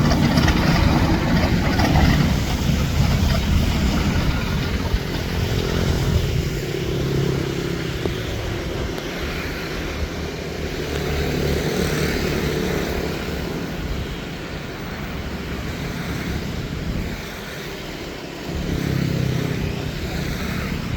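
A motor engine running steadily, loudest in the first few seconds, easing off through the middle, and swelling again briefly near the end.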